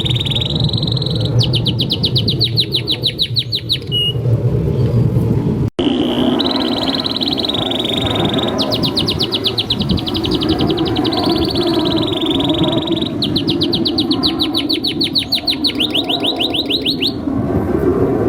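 A domestic canary singing continuously: long, fast trills and runs of rapidly repeated notes, over a steady low rumble. The song cuts out briefly about six seconds in.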